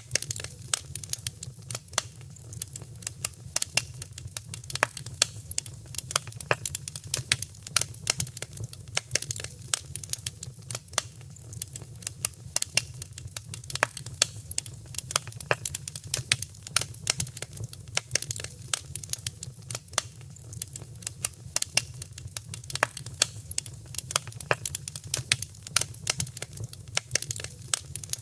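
Wood fire crackling: many sharp, irregular pops and snaps over a steady low rumble of flames.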